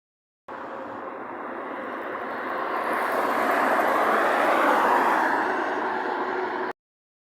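A vehicle passing by, its engine and tyre noise swelling to a peak about four to five seconds in and then easing off. The sound cuts in abruptly about half a second in and cuts out abruptly near the end.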